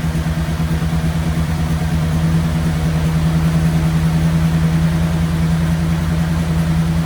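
Ford flathead V8 with twin Holley 94 carburetors idling steadily at a fairly high idle, growing slightly louder about two seconds in. It runs smoothly, though rich, with one carburetor venturi dripping liquid fuel instead of spraying it.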